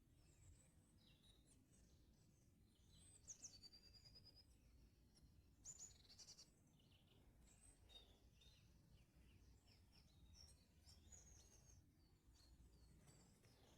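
Several small songbirds singing and calling faintly, with short high chirps throughout and a quick trill of repeated notes about three and a half seconds in, over a steady low background rumble.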